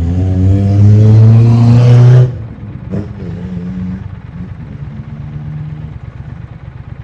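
2020 Triumph Speed Twin 1200 parallel-twin engine accelerating under throttle, its pitch rising for about two seconds before the throttle snaps shut. A click follows a second later, then the engine runs lower and steadier.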